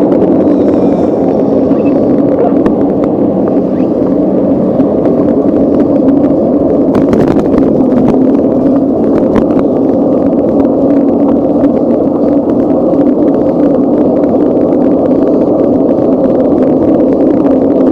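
Steady, loud rush of wind and road noise from a bicycle being ridden, with a low hum and many small knocks and rattles from bumps in the road.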